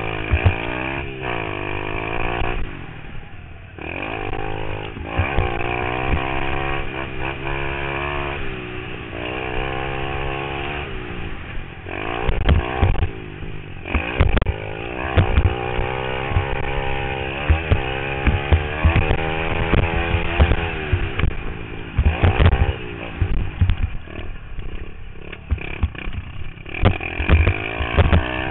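Pit bike engine being ridden hard, its pitch climbing and dropping again and again as the throttle is opened and closed through the track, with rough low thumps breaking in at intervals.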